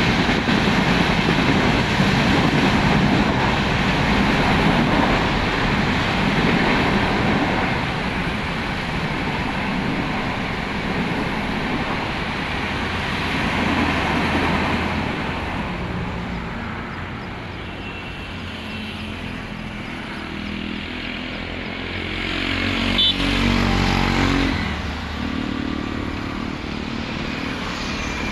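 Passenger train's coaches running along the tracks, a loud steady wheel-and-rail noise that fades from about 15 seconds in as the train draws away. In the later part a motor vehicle's engine runs close by, louder briefly about 23 seconds in.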